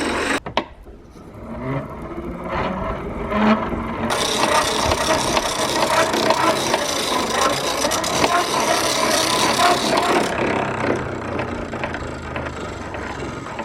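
Antique hand-cranked grinder's stone grinding against metal, a continuous scraping. It starts quietly, grows louder and steady about four seconds in, and eases off toward the end.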